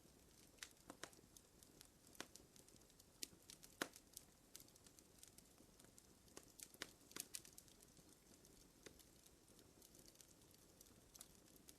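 Wood fire crackling quietly: irregular sharp pops and snaps over a faint hiss, with the loudest pop about four seconds in.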